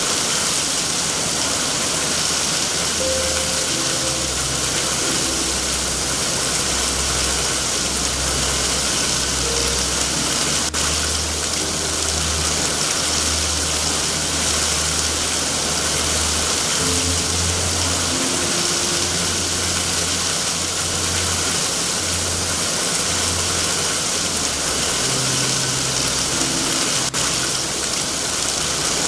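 Steady heavy rain, a dense even hiss, with soft low tones underneath that shift in pitch every second or so.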